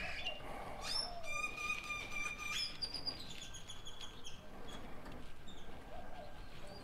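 Faint birdsong: a run of short chirps and thin whistles, including one held whistle a little over a second in and short falling chirps after it.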